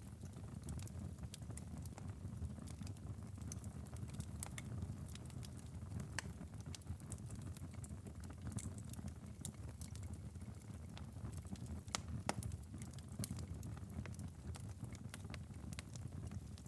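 Fireplace fire crackling: a steady low rumble of the flames with frequent sharp pops and snaps, one louder pop about twelve seconds in.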